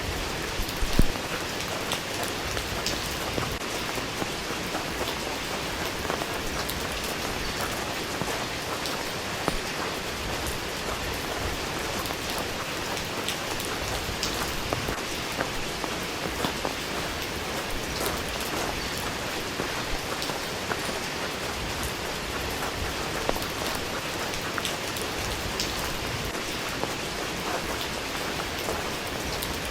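Steady rain falling, with many individual drops ticking on a hard surface, and one louder knock about a second in.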